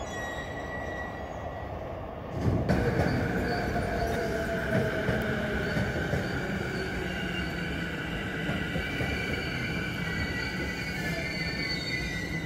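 JR Saikyo Line electric commuter trains running through the station: a continuous rumble with steady and slowly falling tones of the motors and wheels, growing suddenly louder a little over two seconds in as a train moves along the nearby track.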